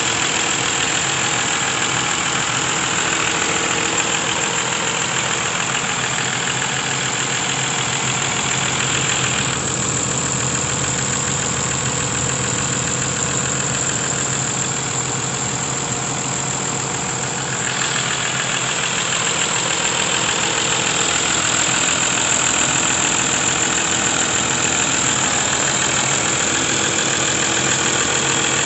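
Toyota Land Cruiser 1HD-FTE 4.2-litre straight-six turbodiesel running steadily at idle, with a steady high-pitched whine above the engine sound.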